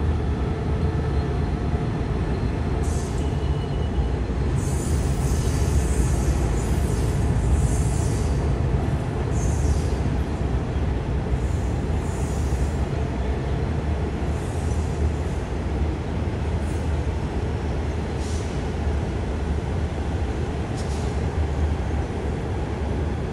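Thai State Railway (SRT) passenger train rolling past with a steady low rumble of wheels on rail. Several short high-pitched noises come from the running gear every few seconds.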